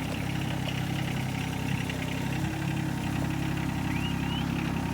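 Farm tractor engine running steadily at low speed while it tows a truck out on a chain.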